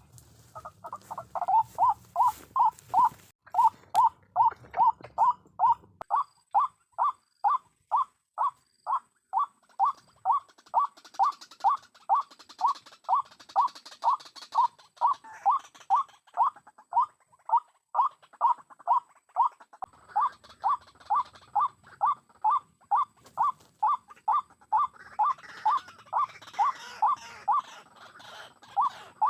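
White-breasted waterhen calling its repeated 'kruok kruok', short even notes a little over two a second, loud and very regular.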